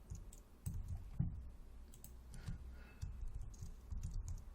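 Scattered, irregular clicks from a computer mouse and keyboard in use.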